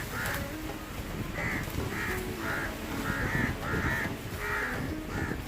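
A bird calling over and over with short, harsh calls, nearly two a second, over wind rumbling on the microphone.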